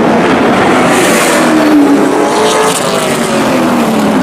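Race truck engines running at speed on the track as trucks go by, with the pitch of passing engines falling away in the middle.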